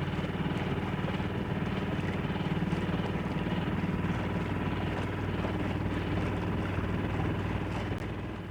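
Small outboard motor on an inflatable dinghy running at a steady speed, a constant engine hum that begins to fade near the end.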